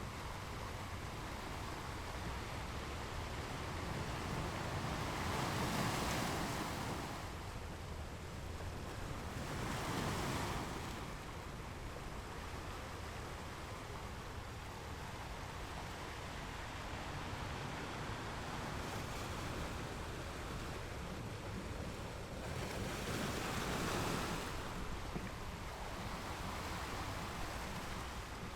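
Ocean waves breaking on rocks over a steady rush of surf, with three larger crashes, about a sixth, a third and four-fifths of the way in.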